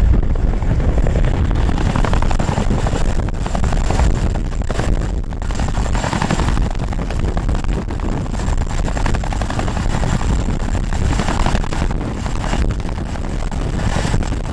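Helicopter running close by: a loud, fast chop of the rotor blades over engine noise, steady throughout.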